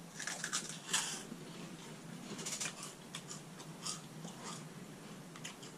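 Two people chewing giant puffed cheese snacks: quiet, irregular crunches.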